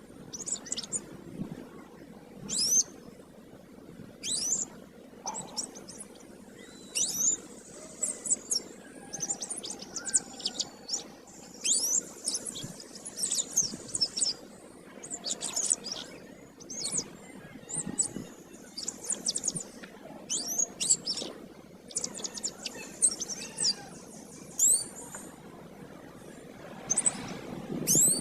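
Domestic canary singing vigorously in quick phrases of high, sweeping notes and rapid trills, with short pauses between phrases, over a faint steady low hum.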